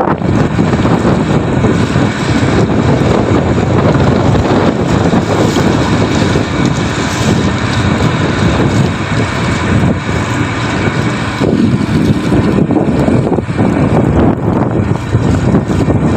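Strong wind buffeting the microphone in gusts, over the steady running of the tanker's engine.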